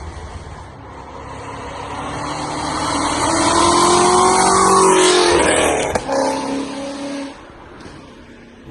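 Ford Shelby GT350's V8 passing by: the engine grows louder for about four seconds, drops in pitch as it goes past, then fades away.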